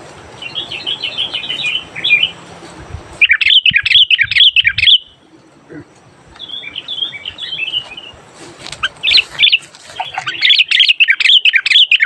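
Sooty-headed bulbul (kutilang) singing loudly in repeated phrases of quick, bubbly chattering notes with short pauses between them. The song grows denser and more continuous over the last few seconds.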